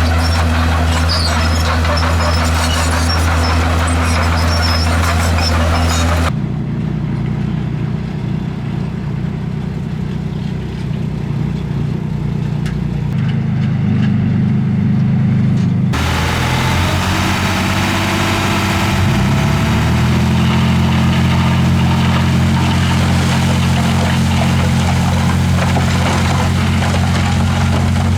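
Heavy diesel engine of a Komatsu D51PX crawler bulldozer running steadily. About 6 s in the sound turns abruptly duller, and about 16 s in it changes again, with the engine pitch shifting up and down for a few seconds before settling back to a steady run.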